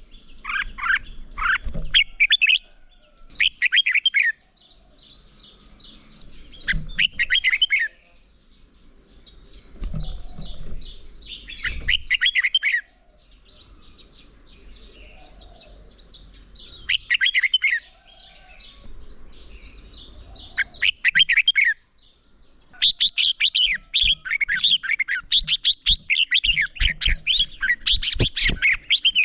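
Red-whiskered bulbuls singing: short bursts of quick whistled phrases with pauses between them, turning into dense, unbroken song for the last six seconds or so, with a few low knocks near the end.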